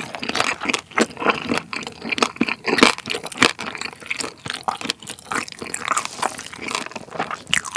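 Close-miked chewing of crispy roasted pork hock (schweinshaxe) skin: a dense, irregular run of crunches, several a second. The skin was roasted long until hard and crisp.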